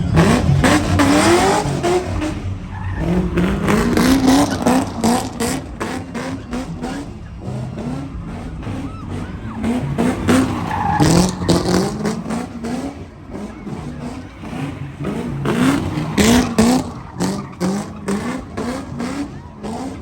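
Vehicle engine revving hard again and again, each rev a quick rising whine, over the hiss of tire squeal.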